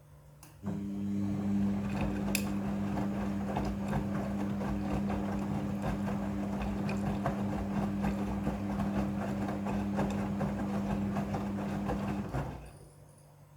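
Midea front-loading washing machine running mid-cycle: a motor or pump starts suddenly about a second in, giving a steady hum with a dense rushing noise over it. It runs evenly for about eleven seconds, then stops near the end.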